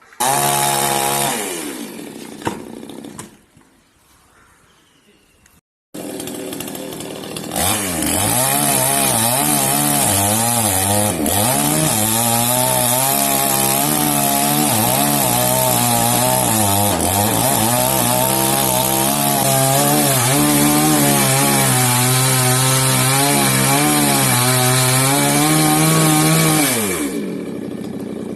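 Chainsaw engine winding down from high revs and falling quiet. After a break it runs again at high speed for about twenty seconds, its pitch wavering up and down as the chain bites into the coconut wood under load. Near the end the engine winds down again.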